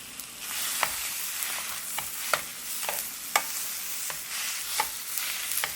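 Food sizzling over a fire: a steady hiss that swells about half a second in, with sharp crackling pops every second or so.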